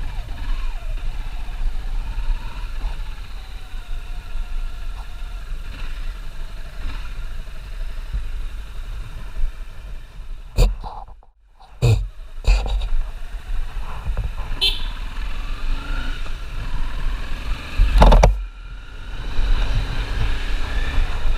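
Honda CBR250R motorcycle's single-cylinder engine running on the road with steady road rumble, its pitch drifting up and down. The sound drops out abruptly for about a second near the middle, and a few sharp knocks stand out.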